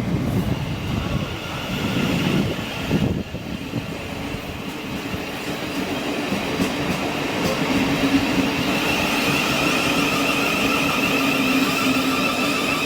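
Train running at the platform. A low rumble over the first few seconds gives way to a steady whine of several held tones that grows louder through the second half.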